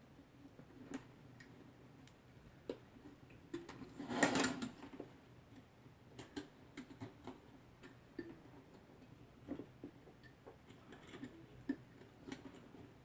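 Hands working on thick Cat6 network cable, with scattered small clicks and taps of the cable, its wire pairs and tools, and one louder scraping rustle about four seconds in.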